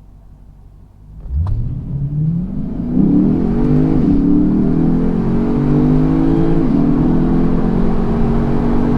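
A V8 car engine comes in about a second in and accelerates hard, its pitch climbing. The pitch drops back twice, as at gear changes, and the engine then runs on loud and steady.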